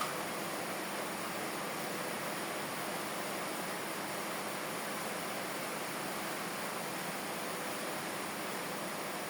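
Steady rainfall: a constant, even hiss of rain.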